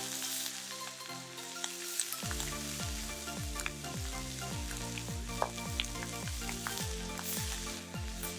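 Beef sizzling and spitting in a Turk wrought-iron frying pan over a campfire. Electronic music with a steady kick-drum beat comes in about two seconds in.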